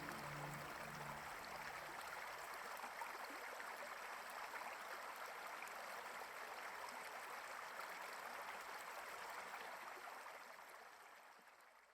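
Steady rush of a flowing river, fading out near the end. The last of a music track dies away in the first second or so.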